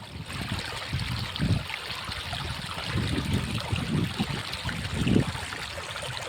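Small stream beside a paddy field trickling and flowing steadily, with irregular low gusts of wind on the microphone.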